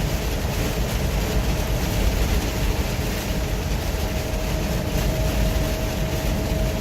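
Steady rumble of a heavy truck driving on a rain-soaked highway, heard from inside the cab: engine and tyre drone mixed with rain and water spray from the road.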